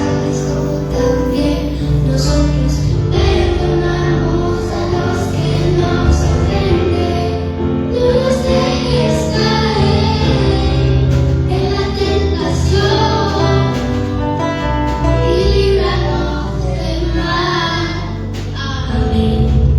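Children singing a Christian song over loud amplified backing music.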